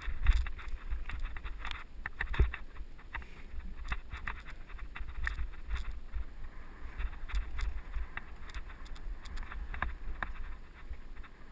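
Mountain bike rolling over a dirt trail, heard through a helmet-mounted GoPro: wind rumbles on the microphone while the bike and tyres give off scattered clicks and rattles over rough ground. Two sharper knocks stand out, right at the start and about two and a half seconds in.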